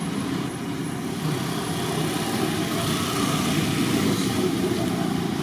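A motor vehicle engine running steadily, a low continuous rumble.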